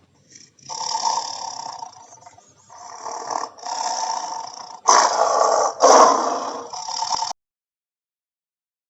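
An animal making a series of about five rough, unpitched calls, the last two loudest, cut off abruptly near the end.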